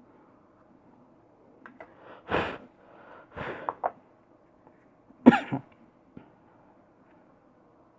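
A man coughing: three short coughs spread over a few seconds, the last, about five seconds in, the loudest.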